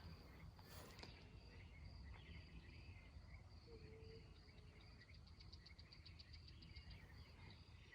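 Near silence with crickets chirping faintly, a steady high trill with a quick run of pulsed chirps about five to seven seconds in.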